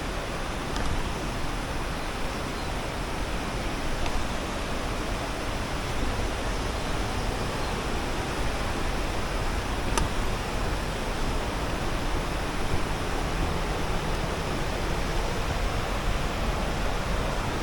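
Steady rush of water from a mountain river and waterfall, an even hiss with a single faint click about ten seconds in.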